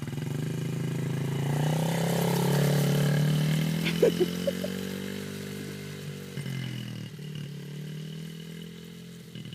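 Small motorcycle engine running at a low, steady speed in first gear with its throttle set back, growing louder as it comes near and then slowly fading as it moves away, its pitch dropping a little. A click and a few short squeaks about four seconds in.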